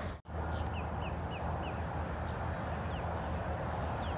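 Short, quick falling bird chirps: four in a row about a second in, then two single ones later, over outdoor background noise.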